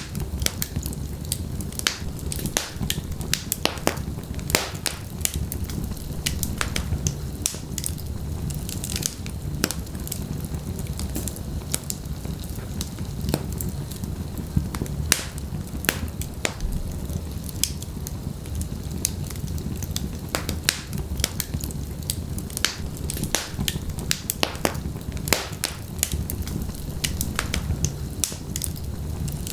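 Wood fire burning in a fireplace: logs crackling and popping with frequent sharp irregular snaps over a steady low rumble of the flames.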